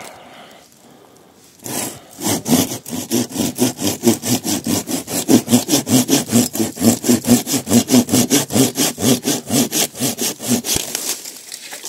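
Hand saw cutting through a dead tree branch in quick, even back-and-forth strokes, starting about two seconds in and stopping shortly before the end.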